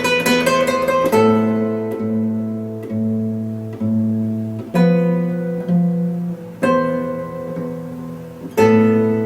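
Guitar music: a quick run of plucked notes, then chords struck about every two seconds and left to ring out.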